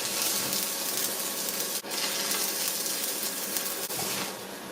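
Stick-welding arc crackling steadily as a weld is laid on a steel frame, with a short break just under two seconds in and a drop in level about four seconds in.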